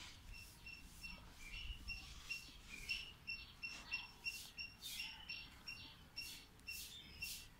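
Faint birdsong: one bird repeating a short high note about four times a second, with other birds' quick chirps scattered over it.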